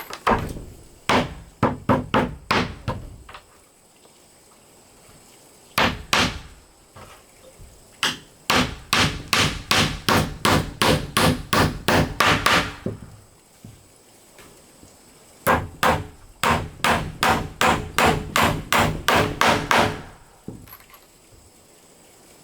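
Hammer striking wood in runs of quick blows, about three a second, with short pauses between the runs.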